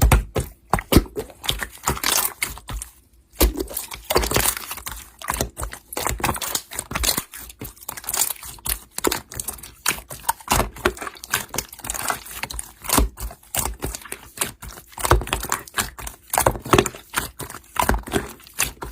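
Slime being played with by hand, making a dense run of irregular clicks and crackles.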